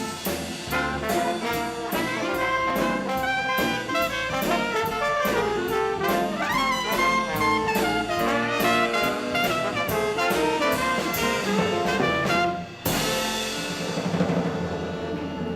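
Swing band playing an instrumental passage: trumpet, trombone and saxophones over a steady drum beat. The band stops abruptly about 13 seconds in, leaving a wash of noise.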